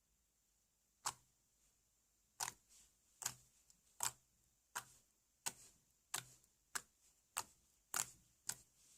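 Slime being pressed and worked by hand, giving a run of sharp clicking pops from trapped air, about eleven of them at a steady pace of roughly one every two-thirds of a second, starting about a second in.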